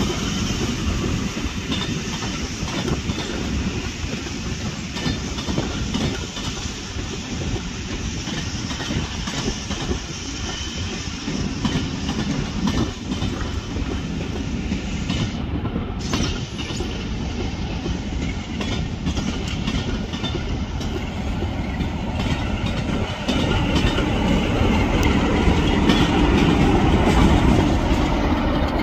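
A train moving through a station, its wheels clicking over rail joints; the sound grows louder near the end.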